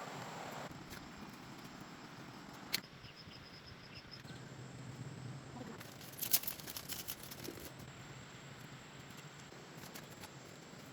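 Light handling noises: a single sharp click about three seconds in, then a quick run of clicks and taps a little after six seconds. A faint, rapid high ticking runs briefly under it.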